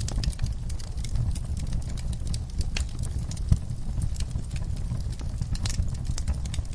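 Wood fire crackling in a fireplace: many sharp crackles over a steady low rumble, with one louder pop about three and a half seconds in.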